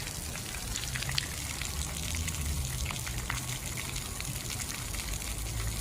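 Water running and gushing steadily, with small drips and splashes ticking over it and a low hum underneath.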